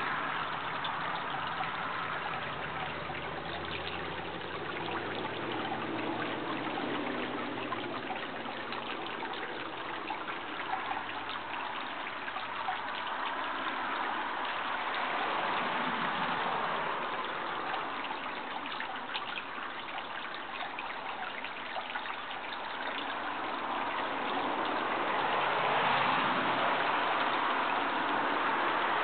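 Steady rush of running water that slowly swells and eases, with a faint low hum a few seconds in.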